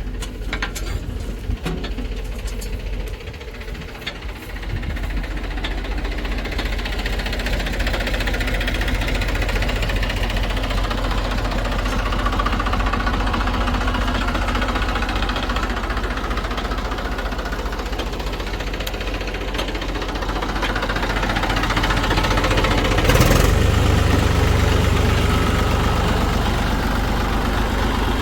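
Heavy diesel engine running with a steady low knocking beat, growing louder about five seconds in, with a brief louder surge a little after twenty seconds.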